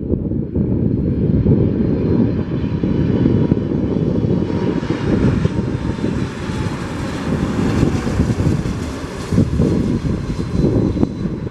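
Boeing 747-400F's four jet engines rumbling as the freighter moves past. A higher engine hiss over the rumble builds to a peak about eight seconds in and then eases off.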